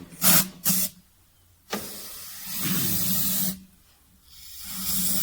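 Aerosol solvent cleaner hissing as it is sprayed onto the ASD fluid reservoir: two short spurts, then two longer blasts of about two seconds each.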